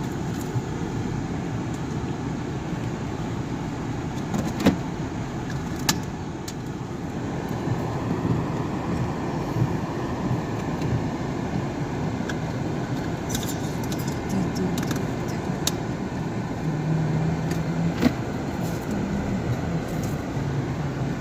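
Steady road and engine noise heard from inside a moving car's cabin, with a few sharp clicks or rattles.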